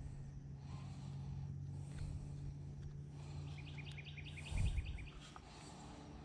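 Outdoor ambience with a bird singing a quick series of high chirps about halfway through. A low thump close to the microphone comes near the end of the chirping, while the bass is handled.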